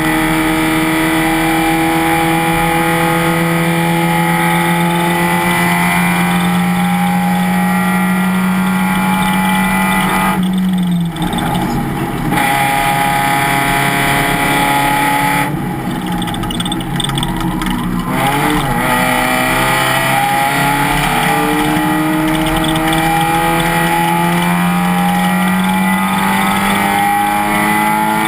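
Race car engine pulling at full throttle, its pitch climbing slowly for about ten seconds before the driver lifts off. A few seconds later it slows with quick up-and-down pitch swoops like downshift blips. It then accelerates again, the pitch climbing steadily to the end.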